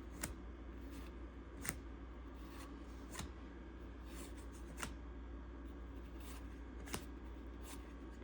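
Cardboard trading cards being handled and turned over one at a time, with a faint sharp click or snap every second or two as each card is laid down, over a low steady hum.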